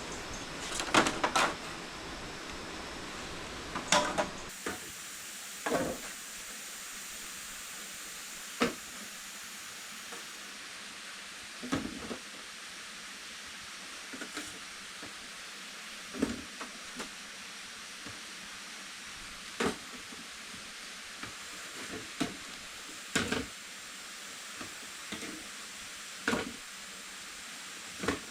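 A series of short, sharp knocks at irregular intervals, one every two to three seconds, over a steady hiss. A low background rumble stops about four and a half seconds in.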